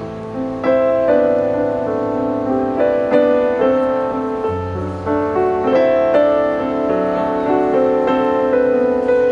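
Piano music: a melody of single notes played over held low bass notes.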